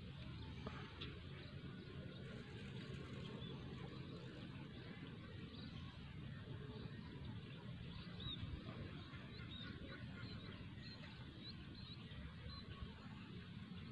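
Faint, steady outdoor background noise, with a series of short, high bird chirps in the second half.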